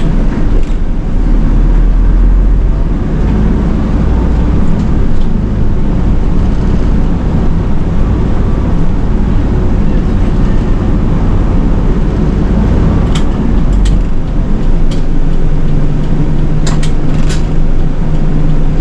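City bus running on the road, heard from inside the cabin: a steady low engine rumble with road noise, which eases a little about two-thirds of the way through. A few sharp clicks come near the end.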